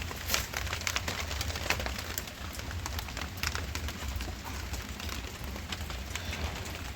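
Rain falling steadily, with a constant hiss and many irregular sharp drop impacts.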